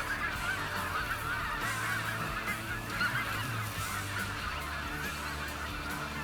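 A large flock of snow geese calling: many short, high honks overlapping in a constant chorus.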